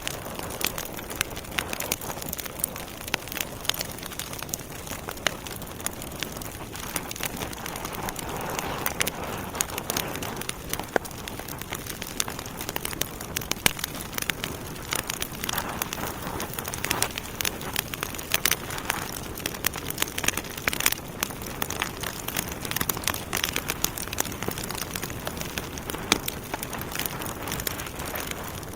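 Wood fire burning in a fireplace: logs crackling with many irregular sharp pops over a steady soft hiss.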